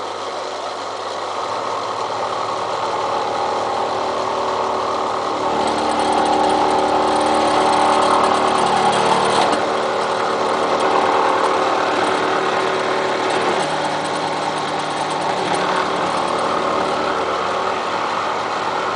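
Milling machine running with its cutter cutting into the steel of a railroad-track anvil, a steady motor hum under a rough grinding cutting noise that grows louder about five seconds in and eases off again near fourteen seconds.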